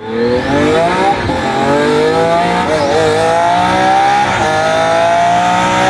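Twin-turbocharged Lamborghini Aventador V12 accelerating hard, its pitch climbing through the gears with quick upshifts about one, three and four and a half seconds in.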